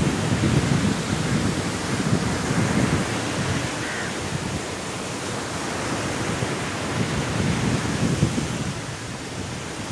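Sea waves breaking and washing on a shore under strong wind: a steady rushing noise that swells and eases in surges.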